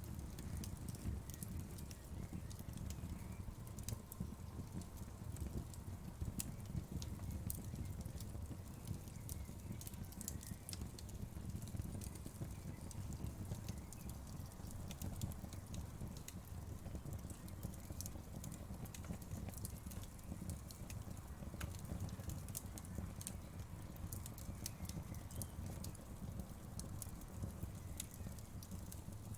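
Wood fire crackling: a steady low rumble of flames with irregular sharp pops and crackles scattered throughout.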